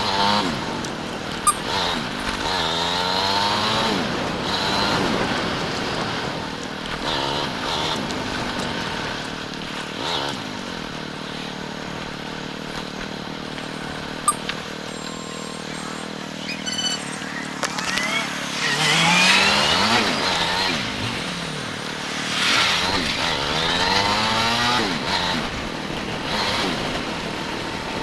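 Motorcycle engine under way, its pitch falling and rising as the throttle is eased and opened: steadier cruising through the middle, then two strong climbs in pitch near the end as the bike accelerates, with a steady rush of wind and road noise underneath.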